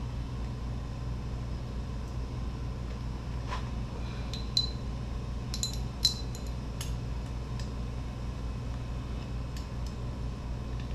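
Steady low hum with a few light metallic clinks in the middle, the loudest two about a second and a half apart.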